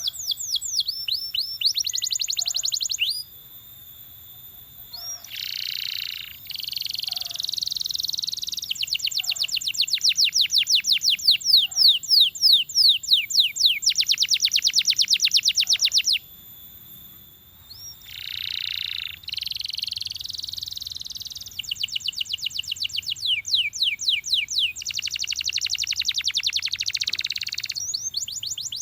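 Belgian canary singing long rolling trills of fast repeated high notes, phrase after phrase, with short breaks about three seconds in and again just past the middle.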